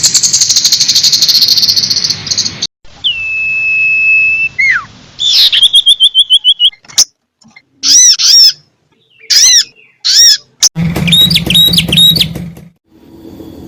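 A run of different birds' calls, each a short separate recording cut hard against the next. First a dense buzzy chatter, then a clear held whistle that drops away, a fast trill, paired chirps, and near the end three repeated chirps over a low hum.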